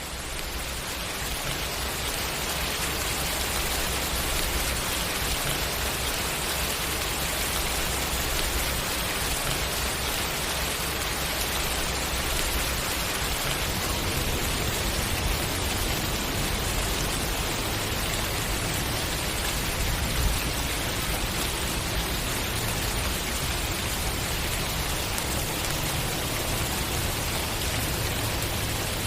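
Steady rain falling, a dense even hiss of many drops, fading in over the first couple of seconds and then holding steady.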